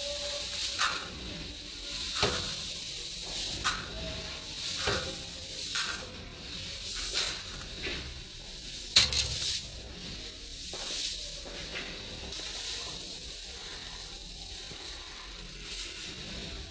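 Dry rice grains rustling and trickling, a steady hiss that swells and fades every second or two, with scattered sharp clicks of grains; the loudest click comes about nine seconds in.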